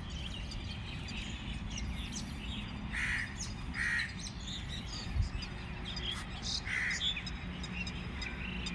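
Birds calling: a few short, separate calls a second or more apart, over a steady low rumble of outdoor background noise, with a single soft knock midway.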